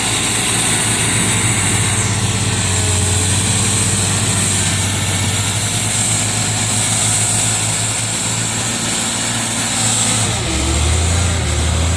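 Palm-fruit lift truck's engine running steadily, its note shifting about two and a half seconds in and again near the end, while the machine is bogged down in soft ground.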